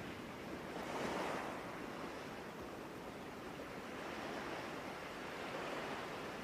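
Soft ocean waves washing in, a steady hiss that swells and ebbs, with the strongest swell about a second in.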